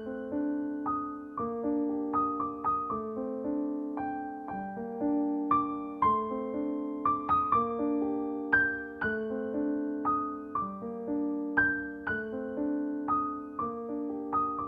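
Background piano music: a gentle, repeating melody of struck notes, each ringing and fading.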